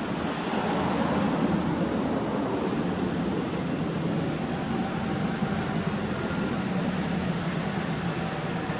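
Suzuki Alto Works (HA36S) 660 cc three-cylinder turbo engine idling steadily through an aftermarket Trust exhaust, a low even hum.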